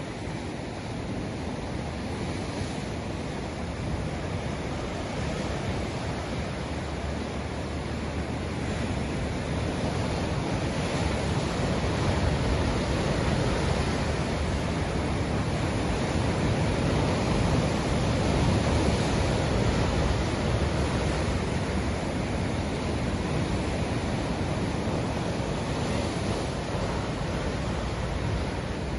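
Ocean surf: a continuous wash of breaking waves that slowly swells louder through the middle and eases off again toward the end.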